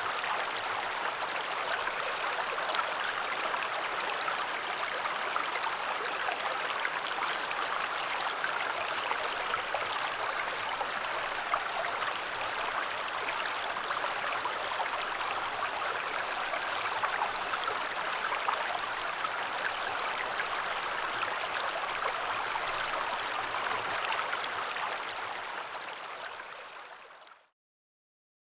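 River water rushing steadily over its bed, an even hiss of flowing water that fades out near the end into silence.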